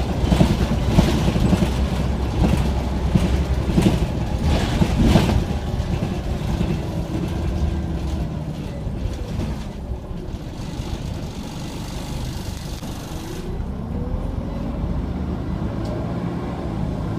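Scania OmniCity single-deck bus heard from inside while under way: a steady engine and drivetrain rumble, with sharp rattles and knocks through the first few seconds. A whine falls in pitch about halfway through, then rises again.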